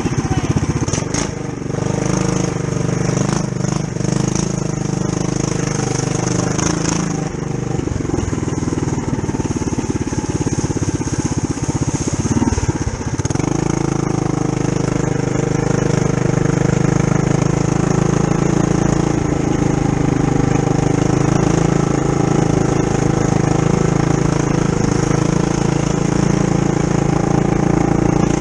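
Trail Master MB200-2 mini bike's Tillotson 212cc single-cylinder four-stroke engine, stage one with the governor removed, running steadily under throttle while riding. Its pitch dips and changes briefly a little under halfway through, then holds steady again.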